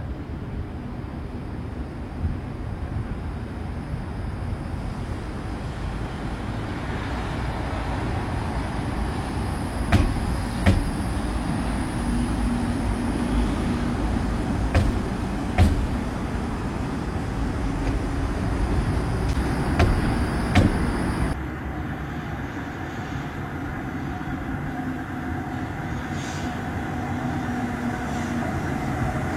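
Tram running along the track with a steady rumble. Sharp wheel clicks come in pairs three times. A little after twenty seconds the hiss drops away and a steadier hum with a few held tones takes over.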